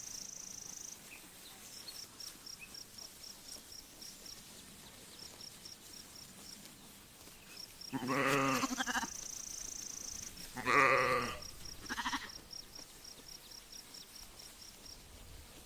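Sheep bleating: two full calls near the middle, then a short third one just after. Behind them a high, rapidly pulsing chirp keeps on.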